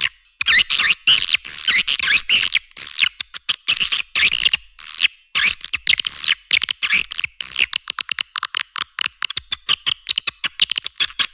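Swiftlet (walet) calls in a lure recording of the kind used to draw birds into nesting houses: dense, rapid twittering chirps chopped into quick pulses, high-pitched with no low end. There is a short break a little before the midpoint.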